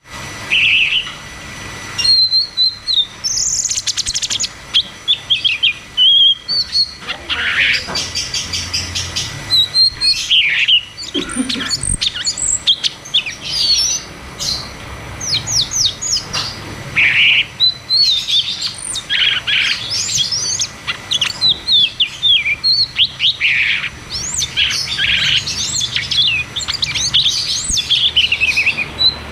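A cucak cungkok singing a long, fast run of chirps and sweeping whistles with hardly a pause, the rolling, rapid-fire song bird keepers call 'ngeroll tembak'.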